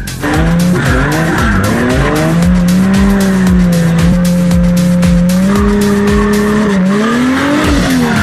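Drift car engine revving up over the first couple of seconds and then held at high revs, dipping and climbing again near the end, with tyres squealing and skidding. Music with a steady thumping beat plays underneath.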